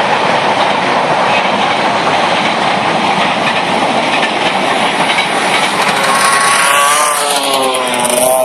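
A loud, dense rushing engine noise. From about six seconds in, a KTM motocross bike's small engine comes through clearly, its pitch wavering up and down as the throttle is worked.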